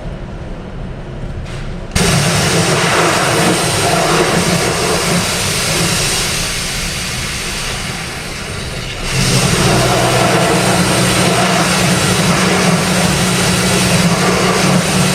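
A machine starts abruptly about two seconds in with a loud, steady hiss; a steady low hum joins it about nine seconds in and runs on with the hiss.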